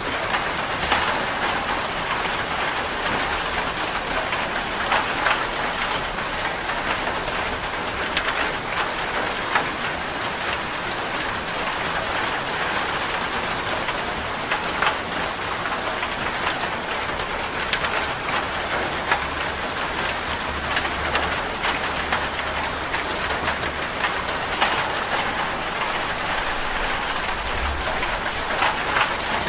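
Steady rain falling, an even hiss scattered with the patter of drops striking a surface.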